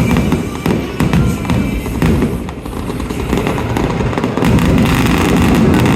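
Aerial fireworks bursting in rapid succession: deep booms with sharp cracks, thickening into a dense, continuous barrage about four seconds in. Music plays along.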